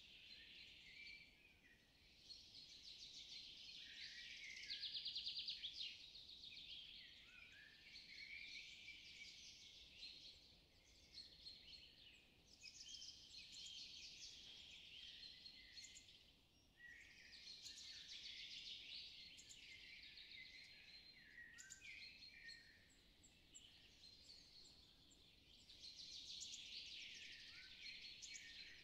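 Faint songbirds chirping and trilling, coming in waves with short lulls. The loudest is one rapid trill about five seconds in.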